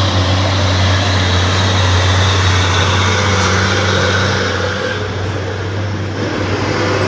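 Heavy diesel truck engine running steadily with a low drone. It eases slightly after about five seconds.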